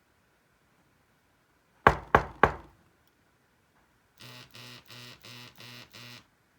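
Three sharp knocks in quick succession, then the wearable's vibration motor buzzing in six short, evenly spaced pulses: the haptic alert that the knock has been detected.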